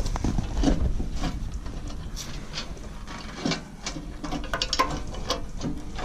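Hand ratchet wrench clicking in short irregular runs as a nut is tightened onto a loader-bucket pivot bolt.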